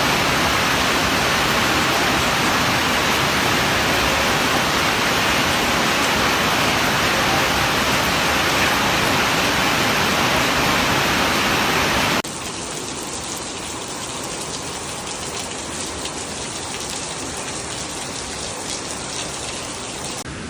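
A steady, even rush of water, loud for about twelve seconds, then cutting off suddenly to a quieter rushing-water sound.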